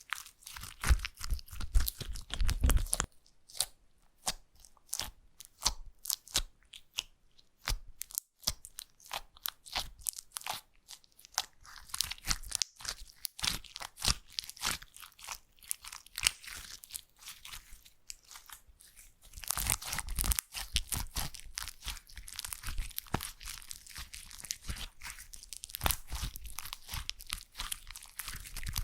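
Slime being squeezed and pressed by hand close to the microphone, making a dense run of crackling, popping clicks, louder in a few clusters.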